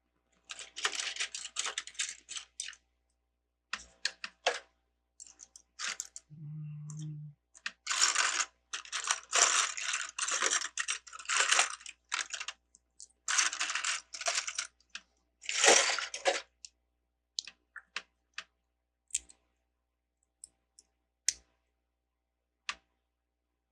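Small plastic LEGO pieces clicking and clattering as they are sorted through and handled, in busy bursts of many small clicks with scattered single clicks between. A brief low hum about six seconds in.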